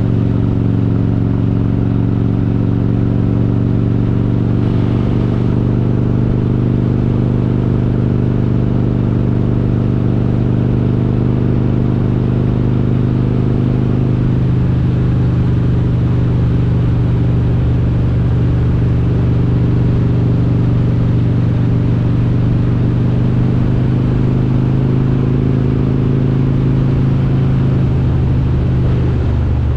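Harley-Davidson Road King's V-twin, enlarged to 95 cubic inches with S&S parts and Super Stock cylinder heads, running at a steady cruising pace with little change in engine speed.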